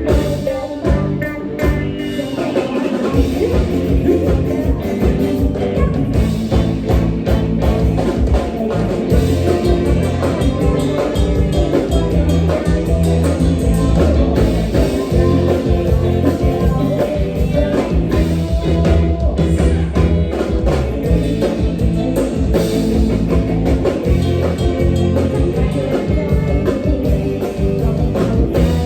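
Live Isan band playing a toei-style mor lam song: electric bass, drum kit and guitar with a steady beat, and a singer's voice over it.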